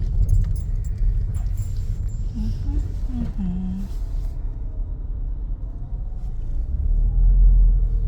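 Car driving, heard from inside the cabin: a steady low road and engine rumble that grows louder near the end.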